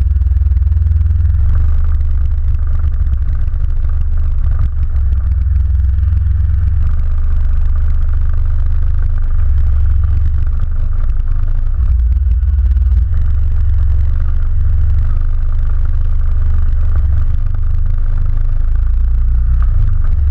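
ATV engine running steadily while being ridden, with a heavy low rumble throughout.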